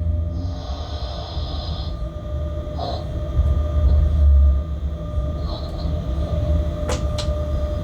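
Inside a freight locomotive's cab while the train is running: a steady low rumble of the locomotive and wheels on the track, with a high hiss early on lasting over a second and two sharp clicks near the end.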